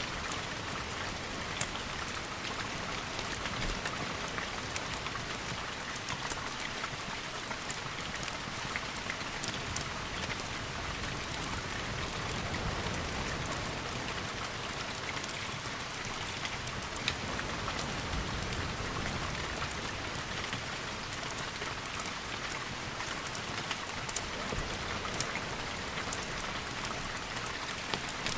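Steady rain hiss with many scattered sharp drop ticks, and a soft low rumble that swells a couple of times.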